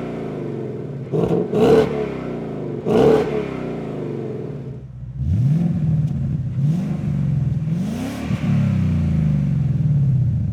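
Ford Mustang GT's 5.0-litre V8 through an XForce Varex 3-inch cat-back exhaust: three quick throttle blips over the idle, then from about halfway a few longer pulls where the engine pitch rises and falls.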